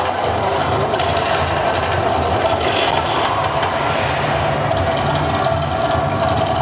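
The Mirage volcano attraction erupting: a loud, steady, rumbling roar with a continuous hum in the middle range.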